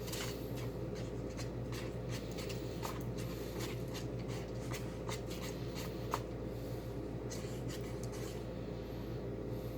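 Slime being stirred and scraped in a small container: a run of light scrapes and clicks over a steady low hum, stopping about eight and a half seconds in.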